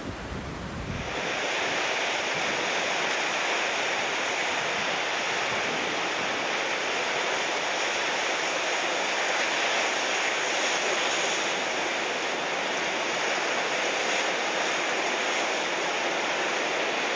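Steady, even rush of surf with no breaks in it, coming in about a second in after low wind buffeting on the microphone.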